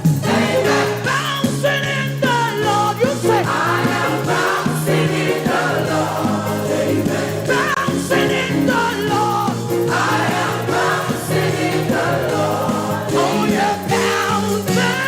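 Live gospel praise music: a choir and congregation singing over a band with a steady beat.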